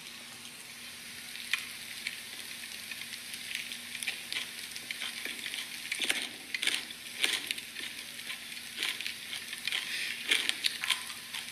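Close-miked ASMR eating sounds of worms being chewed, played back from a video: a dense, wet crackle of small clicks and pops.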